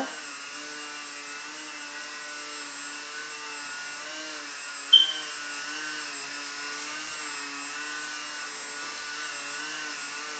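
Small electric motor and propeller of a Techone Mini Yak54 foam RC airplane whining steadily in a hover, its pitch wavering slightly as the throttle is worked to hold it up. A short sharp sound about five seconds in.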